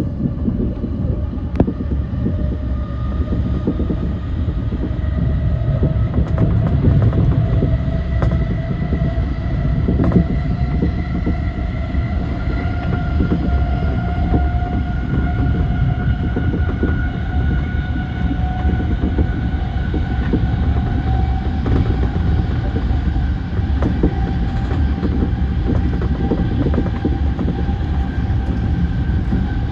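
E235 series electric train running at speed, heard from inside the leading car: a steady low rumble of wheels on rail with occasional sharp clicks over rail joints. Over it a whine from the traction motors slowly rises in pitch as the train gathers speed.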